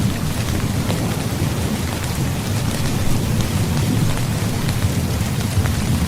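Heavy steady rainfall, with countless drops ticking on a surface over a continuous low rumble of thunder.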